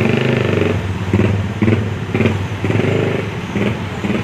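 Truck crane's engine running at the work site, its level rising and falling unevenly over a steady low hum.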